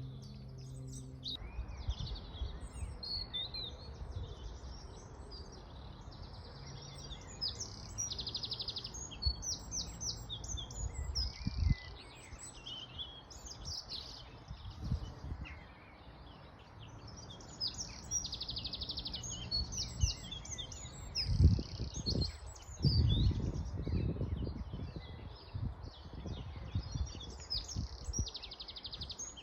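Several songbirds singing outdoors, with many short chirps and repeated trills, over the steady rush of a running river. Low rumbling bursts come and go beneath them, strongest about two-thirds of the way through.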